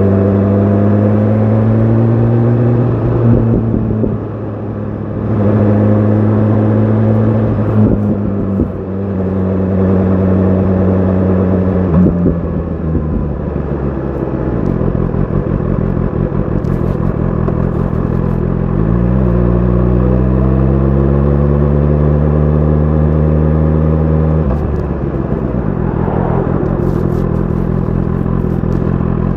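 BMW S1000 RR inline-four engine through an Akrapovic exhaust under way: the note holds steady, dips twice in the first half, then climbs steadily for about five seconds before dropping sharply near the end, with wind noise throughout.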